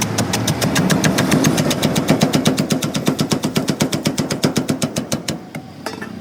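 Rapid, even tapping or clicking, about seven or eight strokes a second, that stops after about five seconds.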